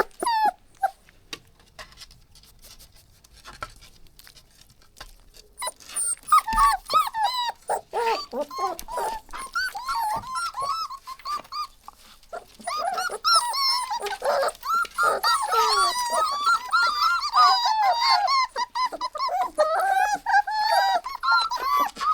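Puppies whining and whimpering in short, high-pitched calls. The calls are sparse and faint for the first few seconds, then grow into a near-constant overlapping chorus in the second half.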